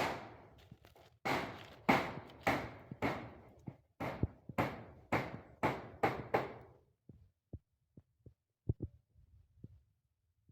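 A series of about a dozen sharp knocks, roughly two a second, each with a short ringing tail. They stop about six and a half seconds in, and a few faint ticks follow.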